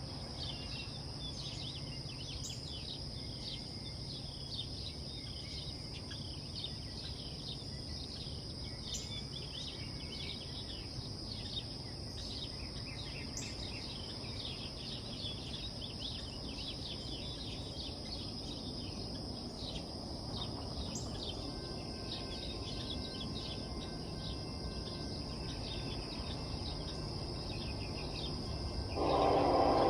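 Steady high-pitched insect drone with scattered bird chirps over a low background rumble; a louder sound comes in about a second before the end.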